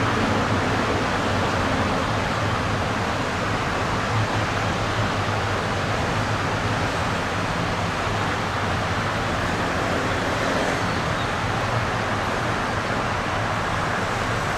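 Steady machinery hum with a low drone under an even rushing noise, with no distinct events: railway station ambience.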